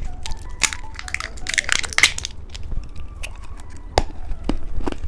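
Crinkling and crackling of a plastic candy wrapper being handled and torn open. There is a dense run of crackles about one and a half to two seconds in, and a few sharp clicks later on.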